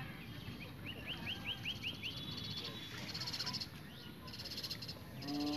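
Small birds chirping and trilling in the open: a quick run of about six rising chirps, then several fast, rattling trills. Near the end a brief held, steady-pitched voice-like call is the loudest sound.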